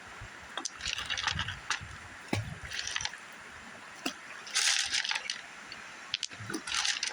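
Water splashing and sloshing in four short bursts as gravel and stones are worked by hand in shallow river water, with a few small clicks of stones knocking together.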